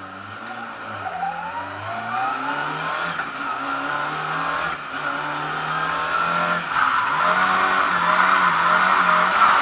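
Lada 2101's four-cylinder engine heard from inside the cabin, accelerating hard from low speed. It revs up through the gears, with short drops in pitch at the shifts about five and seven seconds in, then runs at high revs and gets louder.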